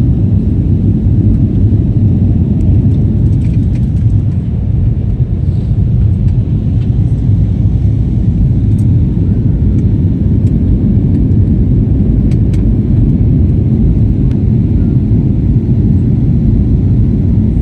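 Steady, loud rumble of an airliner during takeoff and climb, engine and airflow noise heard as an even low roar without change.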